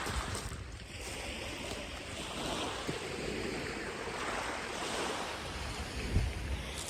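Surf washing onto a sandy beach in a steady rush, with wind rumbling on the microphone.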